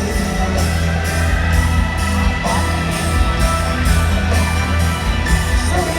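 Live rock band playing an instrumental passage between sung lines: electric guitar over bass and drums, with cymbal strokes at a steady beat about twice a second.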